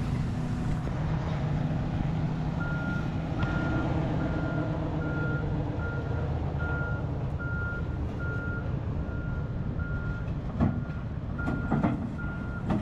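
Kobelco SK210 excavator's diesel engine running steadily while its travel alarm beeps about once a second, starting a couple of seconds in, as the machine tracks off a trailer. Two sharp clanks come near the end.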